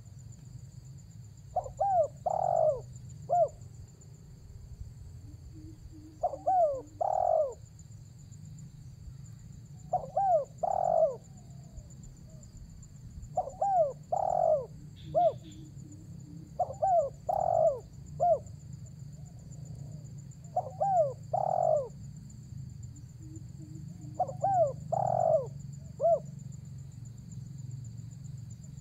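Spotted dove (tekukur) cooing: short phrases of two or three coos, repeated about every three to four seconds, the lively 'gacor' call used to lure wild doves in.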